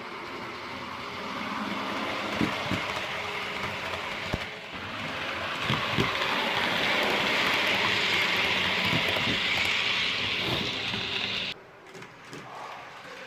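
Model train running on the layout track: a steady whirring hiss that grows louder, with scattered clicks as the wheels pass over the rail joints, cutting off suddenly about eleven and a half seconds in.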